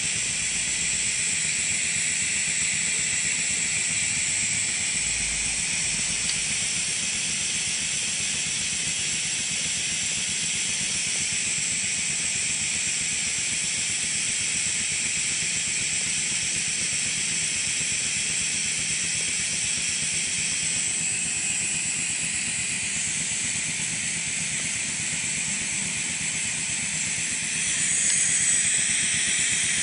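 Maxwell Hemmens colliery steam engine running on compressed air with oil-mist lubrication, its exhaust giving a steady hiss. It gets a little louder near the end.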